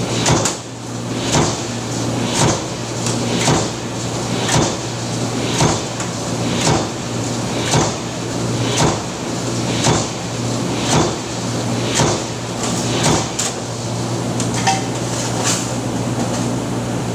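Mechanical power press stamping repeatedly, a sharp metallic clank about once a second with lighter clicks between, over a steady machine hum.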